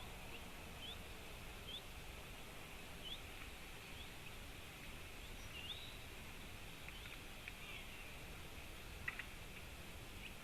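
Small birds calling: scattered short, high, rising chirps over a steady faint hiss, with two sharp clicks about nine seconds in.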